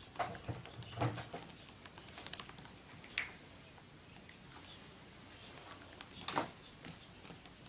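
Faint scattered clicking and scratching from a pet bird moving about, with two louder brief scrapes about three and six seconds in.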